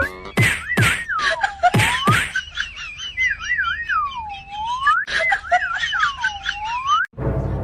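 Whistling: a high tone that wavers in a quick trill, then swoops down and back up in long dips, repeated several times, with sharp clicks in between. It cuts off about seven seconds in, and a different low, rough noise follows.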